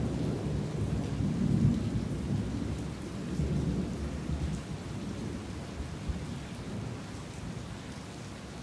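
Thunder rumbling and slowly dying away over steady heavy rain.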